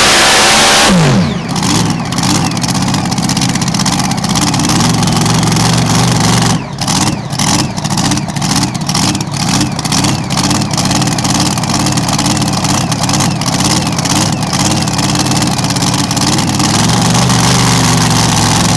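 Mini Rod pulling tractor engine at full throttle that drops off sharply about a second in, then runs at a low, lumpy idle with irregular sharp pops from the exhaust. The engine note firms up again near the end.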